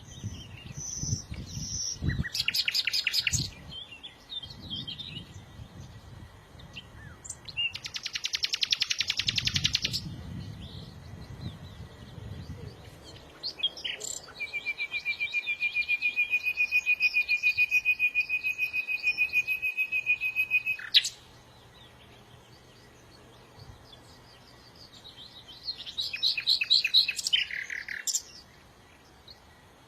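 Songbirds singing in separate bouts of fast trills. A long, steady, evenly pulsed trill of about seven seconds comes in the middle, and a trill that falls in pitch comes near the end.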